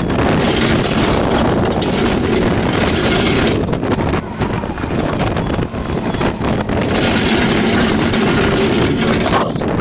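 Engine of heavy farm machinery running steadily, with wind noise on the microphone; the sound grows harsher twice for a few seconds each.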